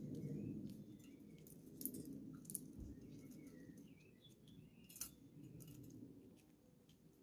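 Faint bird chirps, several short wavering calls, over a low rumble, with a few sharp clicks, the clearest about two and a half and five seconds in.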